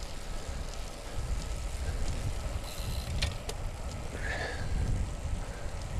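Wind rumbling on the microphone of a moving bicycle, with road and tyre noise underneath. A couple of sharp clicks come a little after three seconds in, and a brief higher sound follows about a second later.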